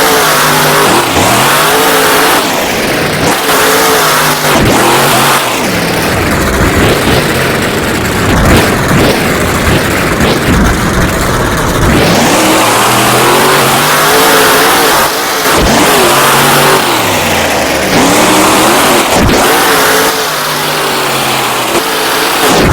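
Monster truck's supercharged V8 engine revved hard over and over during a run, its pitch climbing and dropping back every couple of seconds, very loud.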